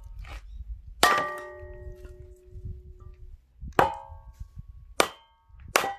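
Axe blows splitting firewood: four sharp strikes, each with a metallic clang that rings on, the first and loudest ringing for about two seconds.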